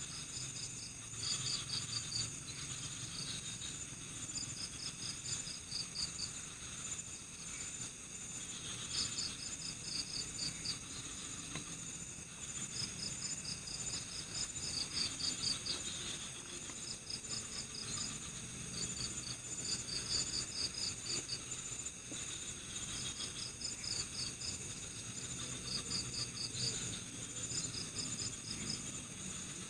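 Night-time insect chorus: crickets chirping in short, rapid trains of pulses that come every second or two, over a steady high-pitched insect drone.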